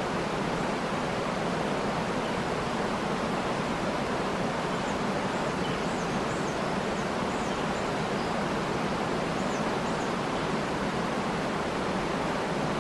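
Steady, even rush of a waterfall, with a few faint, high bird chirps in the middle.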